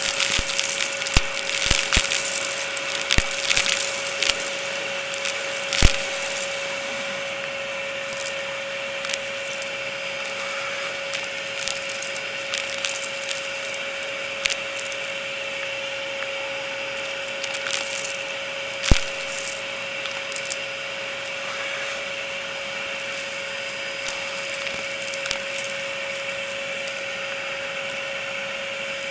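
Dyson DC33 upright vacuum running steadily with a constant whine while its brushroll picks up crunchy debris that crackles and clicks. The crackling is thickest in the first few seconds, with sharp cracks about six seconds in and again about nineteen seconds in.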